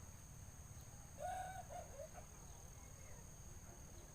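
Steady high-pitched insect trill, with one short call a little over a second in.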